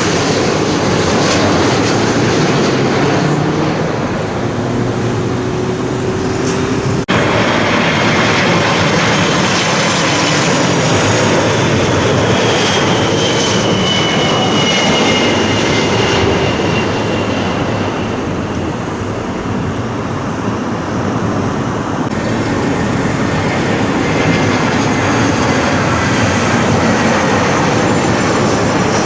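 Jet airliner engines passing low overhead on final approach to land: a loud, steady rush with a thin whine that falls in pitch in the middle. The sound breaks off for an instant about seven seconds in, then carries on.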